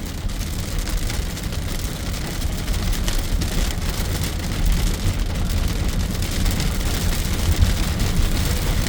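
Heard from inside a moving car's cabin: rain beating on the roof and windshield over the steady low rumble of the road and engine.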